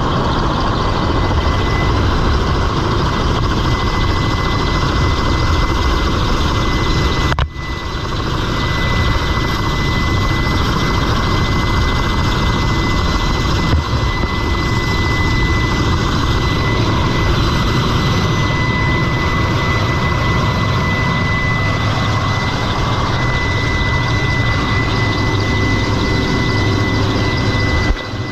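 Helicopter engines and rotor running, a steady loud noise with a constant high whine. The noise dips briefly about seven seconds in.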